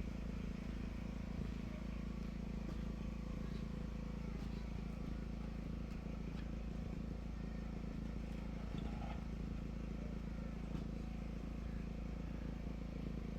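An engine running steadily at a constant speed, a low even hum with no changes in pitch.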